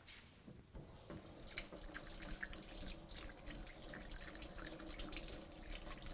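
Egg-washed, flour-dredged chicken breast sizzling in hot olive oil in a frying pan. It is a dense crackle that gets louder about a second in and then holds steady.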